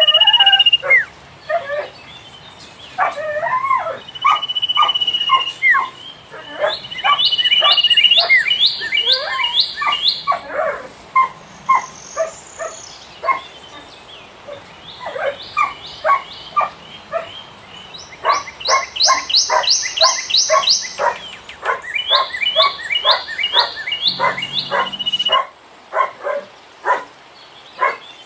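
Philippine pied fantail singing: a loud, chattering run of short varied notes, broken into repeated bursts of quick rising whistles several times over.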